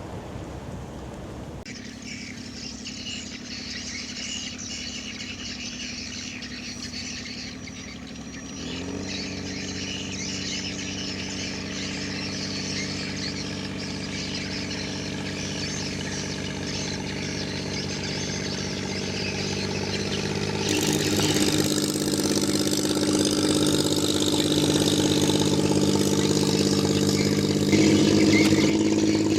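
An engine running steadily, heard as a set of steady tones that come in about nine seconds in and grow louder toward the end, over a constant hiss.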